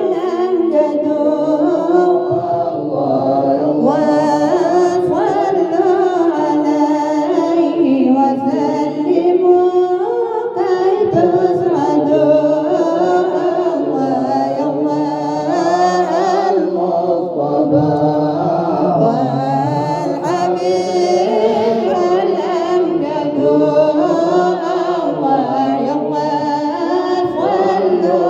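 A man singing an Arabic devotional chant in praise of the Prophet Muhammad, with long, winding melodic lines.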